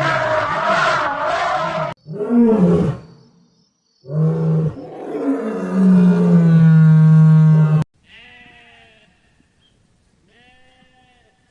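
A series of animal calls: a loud, rough call, a shorter call, then a long, low call held for about three seconds, followed by fainter, higher arched calls in the last few seconds.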